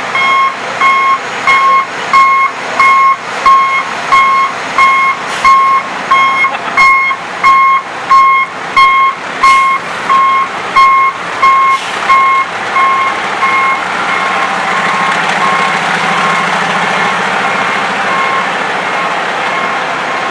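A heavy truck's reversing alarm beeping steadily, about one and a half beeps a second, as the truck backs up. The beeping stops about thirteen seconds in, leaving the truck's engine running with a steady rushing noise.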